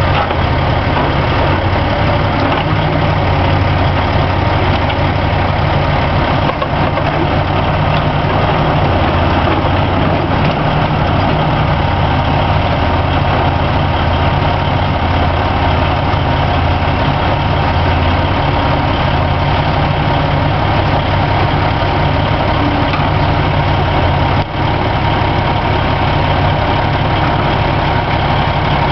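Heavy diesel engine idling steadily, with a thin steady whine above it.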